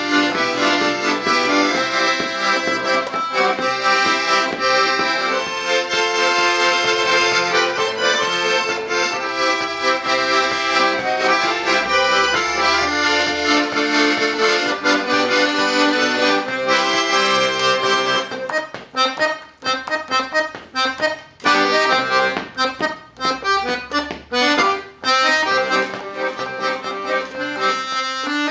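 Accordion played: full held chords and melody with occasional deep bass notes, changing about eighteen seconds in to short, detached notes with brief gaps between them.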